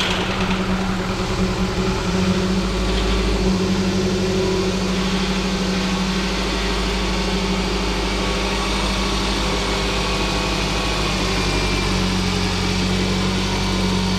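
Scion tC's four-cylinder engine running steadily at idle just after its first start following a rebuild.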